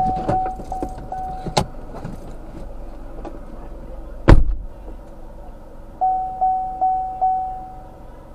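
A car's warning chime dinging about two and a half times a second, a single loud door slam about four seconds in, then four more dings of the chime. Keys jangle and click near the start.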